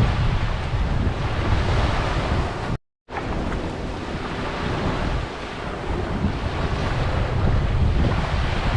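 Ocean waves washing on a beach, with wind buffeting the microphone in a low rumble. The sound cuts out completely for a moment about three seconds in, then returns.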